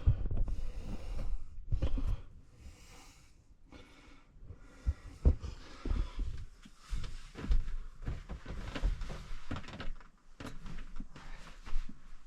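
Irregular knocks, bumps and rustling of someone handling things and moving about inside a small truck camper.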